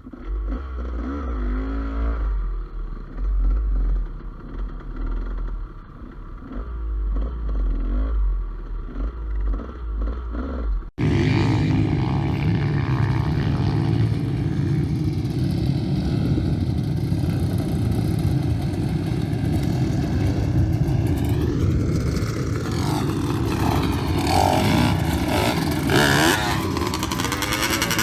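Gas Gas EC200 two-stroke enduro motorcycle engine running and revving while riding, with clatter. About a third of the way in the sound cuts abruptly to a louder stretch of engine noise, with rising and falling revs further on.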